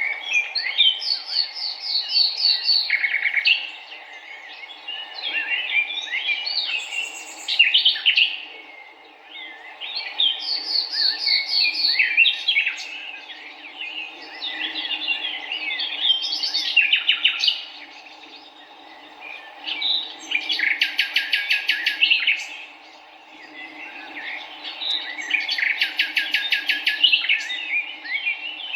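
Several songbirds singing and chirping together, with a rapid, buzzy trill repeated about every five seconds. A steady low rushing noise runs underneath.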